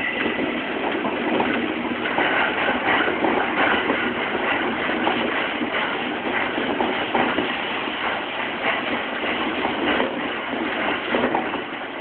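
Running noise inside a Tokaido Line electric commuter train carriage in motion: a steady rush of wheels on rails, with faint clicks here and there.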